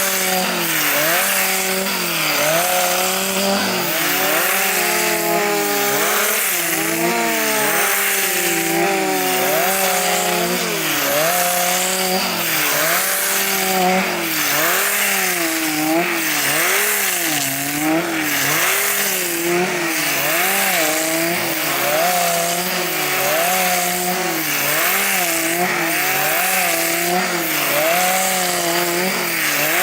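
Petrol chainsaw fitted with a planer-head attachment, running at high revs and stripping bark from a pine log; the engine pitch dips and recovers every second or two as the cutter bites into the bark under load.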